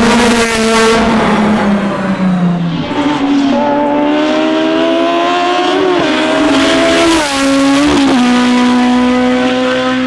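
Classic racing car's engine at full throttle. Its pitch falls over the first few seconds, then climbs and drops sharply at two gear changes about six and eight seconds in, holding steady near the end.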